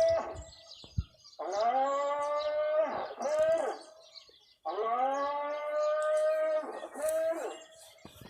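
A farm animal calling: long drawn-out bawls, each lasting two to three seconds, three times in a row with short pauses between.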